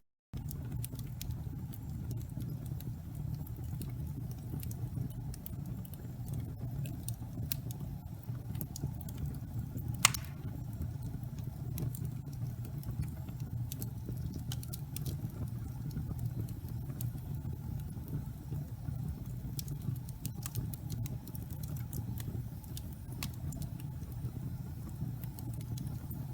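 Wood fire burning in a fireplace: a steady low rumble with scattered small crackles, and one sharp pop about ten seconds in.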